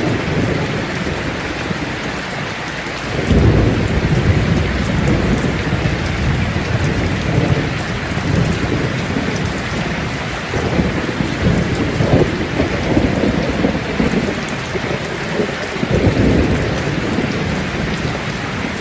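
Steady rain falling in a thunderstorm, with low rolling thunder that swells in a few seconds in and rumbles on and off several more times.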